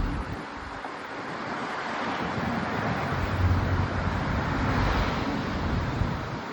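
Wind rushing over the microphone of a moving bicycle, with gusty low rumbles of buffeting that swell in the middle.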